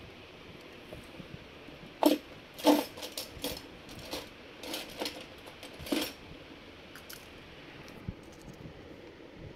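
A run of sharp clicks and knocks from hard plastic and metal parts being handled while a laptop is taken apart, the two loudest about two seconds in, then scattered lighter taps, with a few faint ticks later on.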